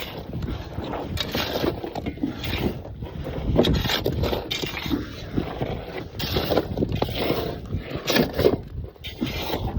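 Shovel scraping and scooping into dirt and gravel, a run of irregular gritty scrapes and crunches.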